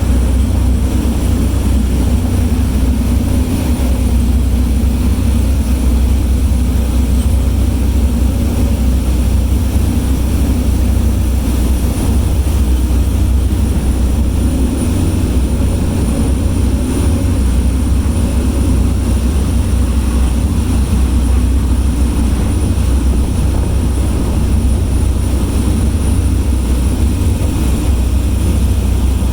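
Ferry engines droning steadily: a loud, even, deep rumble with a low hum over it, unchanging throughout.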